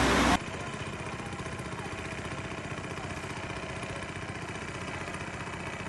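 A loud rushing noise cuts off abruptly just after the start, giving way to a steady motor hum, like an engine idling.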